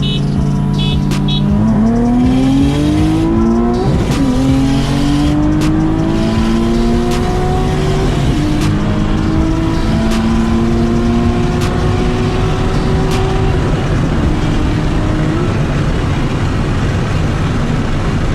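Nissan 370Z's 3.7-litre V6 at full throttle on nitrous, pulling up through the gears. The engine note climbs, drops at a shift about four seconds in and again about eight seconds in, then climbs again before easing off after about fourteen seconds.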